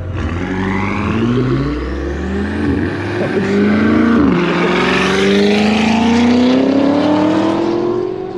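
Turbocharged 1.6-litre three-cylinder engine of a Toyota GR Corolla under hard acceleration, heard from inside the cabin: the pitch climbs, drops at each upshift (the last about four seconds in), then climbs steadily again.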